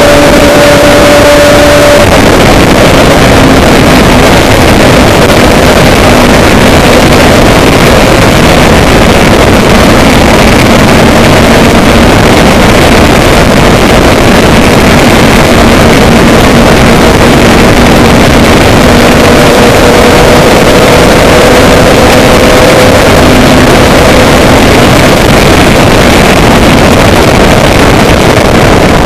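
Loud, steady engine noise with wind buffeting the microphone, under a low hum that drifts slowly in pitch.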